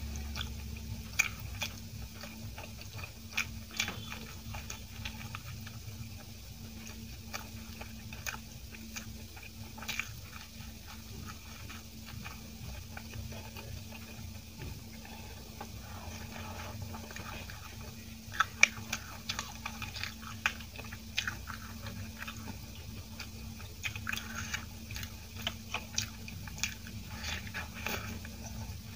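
Close-up chewing of soft idli dipped in tomato chutney: wet mouth sounds with scattered lip smacks and clicks, busier in the second half. A faint steady hum runs underneath.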